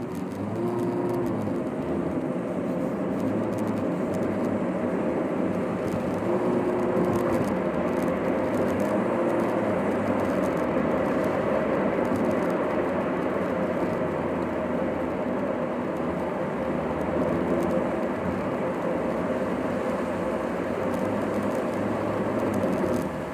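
Car running on the road, heard from inside the cabin: a steady mix of engine and tyre noise with a constant hum, sped up to double speed.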